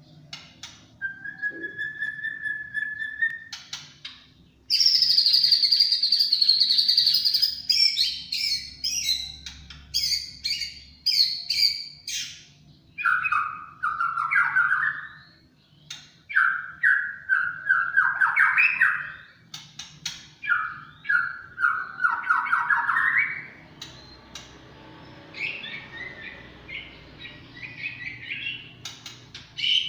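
White-rumped shama singing a long, varied song: a clear held whistle, then fast high rattling phrases, then rising trilled phrases lower down, one after another with short pauses.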